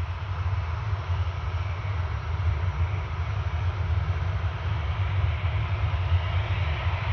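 Jet engines of a Boeing 737-800 (CFM56 turbofans) running at a distance with a steady low rumble. Near the end a whine rises as the engines spool up toward takeoff power.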